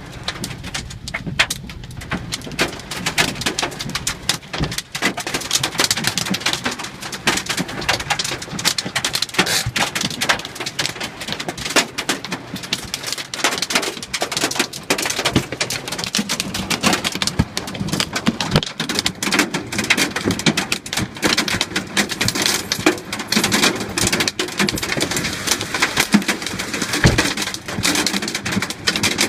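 Hailstones pelting down with heavy rain: a dense, unbroken clatter of small hard impacts.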